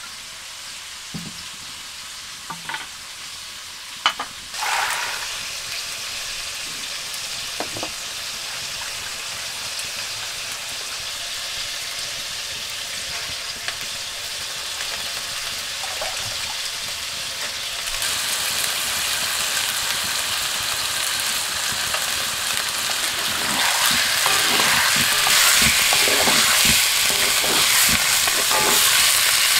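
Mutton and green beans sizzling in hot oil in a wok, stirred and scraped with a wooden spatula. A sharp knock about four seconds in; the sizzle grows louder about eighteen seconds in and again near the end, where the strokes of the stirring come thick and fast.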